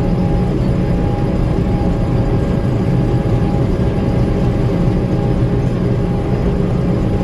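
Gleaner M2 combine running, a steady low drone of engine and machinery heard from the cab.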